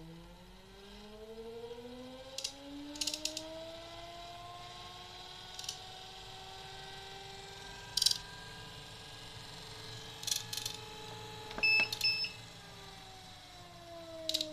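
Treadmill drive motor run by the repaired eWay treadmill controller on a test bench: its whine rises in pitch as the speed is stepped up, holds steady, then falls as it slows near the end. Sharp clicks, likely console key presses, come at intervals, with a short electronic beep about twelve seconds in. The controller is working again after repair.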